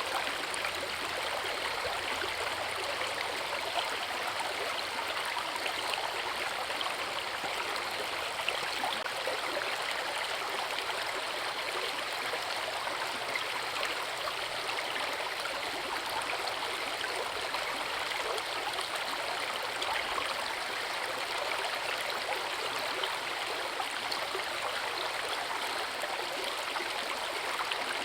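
Forest river water rushing and splashing steadily over rocks, an even, unbroken wash of sound.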